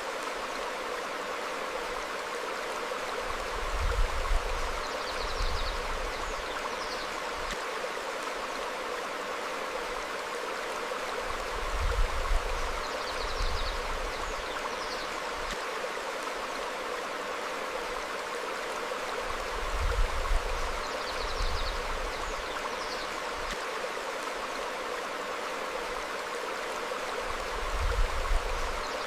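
A stream running over rocks: a steady rush of water with a low rumbling surge about every eight seconds, and faint high bird chirps now and then.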